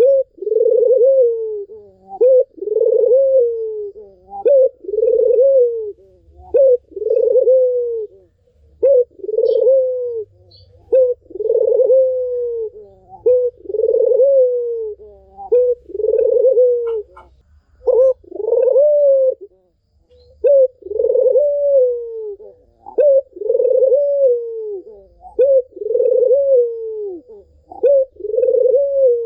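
Barbary dove (puter) cooing again and again. Each coo is about a second long, rising and then sliding down, and they follow one another closely with a couple of brief breaks.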